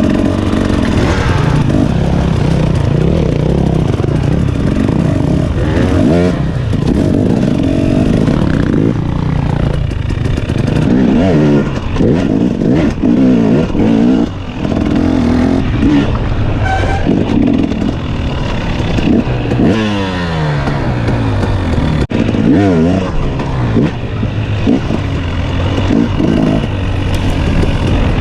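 Dirt bike engine riding a trail, revving up and dropping back again and again as the rider shifts and throttles, with a long deceleration and pull-away about two-thirds of the way through.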